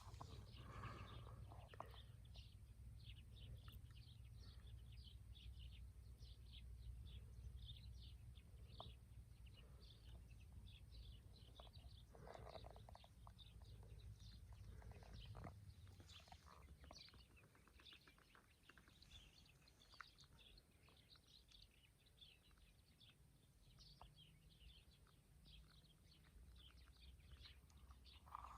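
Small birds chirping in many quick, short high notes throughout, over a faint low rumble that fades out about halfway.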